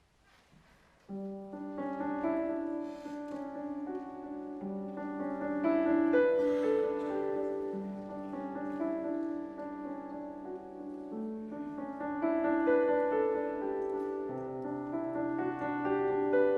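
Piano begins playing about a second in, a slow passage of held chords, with a lower bass note entering near the end.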